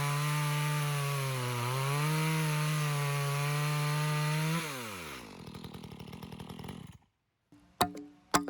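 Two-stroke chainsaw running at high revs, its pitch wavering under load. About four and a half seconds in the revs fall away, and the sound sputters briefly before cutting off. Plucked guitar notes begin near the end.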